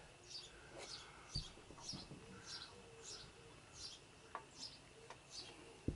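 Faint, regular chirping of a small bird, about three short high chirps a second, with a few soft knocks now and then.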